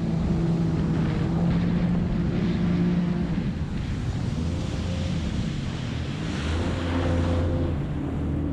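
Jet ski engine running at speed, its pitch steady for a few seconds, then dropping and climbing again before settling lower, with water spray and wind rushing over the microphone.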